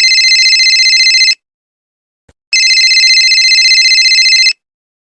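Telephone ringing sound effect: two rings of high, rapidly trilling tones with a pause between them.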